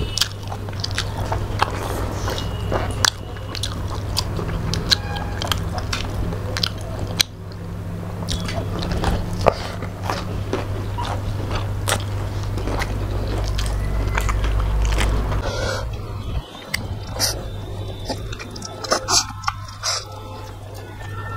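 Close-miked chewing and mouth sounds of people eating rice and fish curry by hand, with many small wet clicks and smacks, over a steady low hum.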